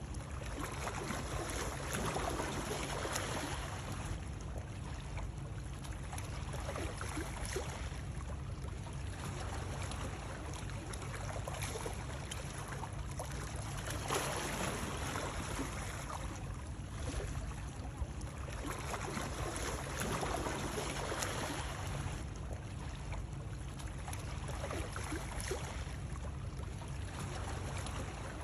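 Continuous rushing water over a steady low rumble, swelling and easing every few seconds.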